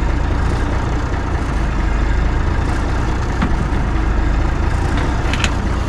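Heavy truck engine idling with a steady low rumble, with a few light clicks near the end.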